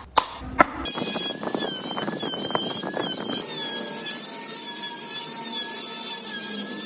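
A small power tool working wood: a high whine whose pitch wavers up and down as it is pushed against the work, over a grinding hiss, after a few sharp knocks in the first second.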